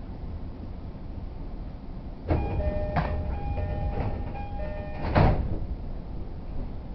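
Door-closing chime of a JR East E231-0 series commuter train: a repeated two-tone electronic chime sounding for a couple of seconds, then the sliding doors closing with a loud thud about five seconds in, over the low hum of the train standing at the platform.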